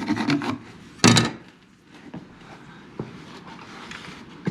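Lumber and hand tools being handled on a wooden workbench: a quick run of knocks and clicks, one loud wooden thud about a second in, then a few light taps.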